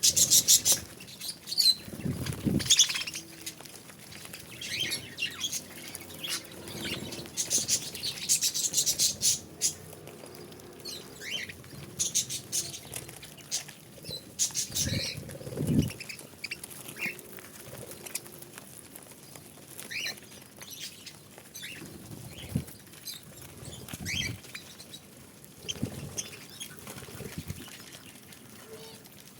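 Budgerigars chirping and chattering in short high calls, with several bursts of fluttering wings.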